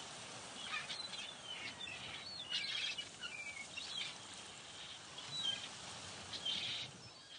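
Birds chirping, a string of short calls and quick sliding notes over a faint steady outdoor hiss.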